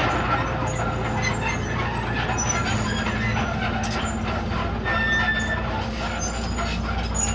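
Komatsu D31PX crawler bulldozer's diesel engine running steadily under work, with scattered clanks from the machine.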